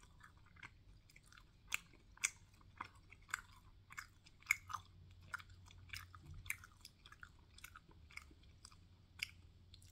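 Close-miked chewing of a sauce-covered chicken wing: a string of short, sharp mouth clicks, about two a second, loudest around the middle.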